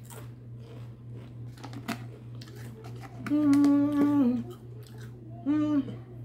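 Chewing and crunching a Pringles crisp with small crackling clicks, and a long hummed "mmm" of approval about three seconds in, then a shorter one near the end.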